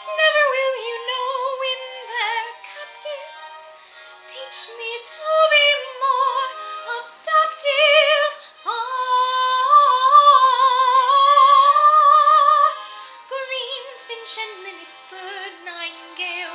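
A woman singing with vibrato over a karaoke backing track, holding one long high note from about nine to thirteen seconds in.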